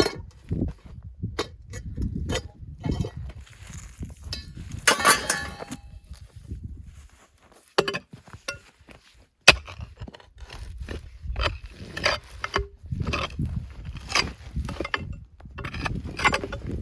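Irregular clinks and knocks of hard objects, with a dense cluster of clinking about five seconds in and two single sharp clicks near the middle.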